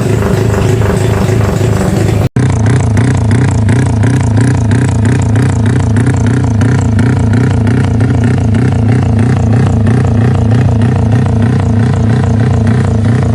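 Yamaha Y15ZR motorcycle's single-cylinder four-stroke engine running loudly and steadily through its exhaust, with a brief dropout about two seconds in.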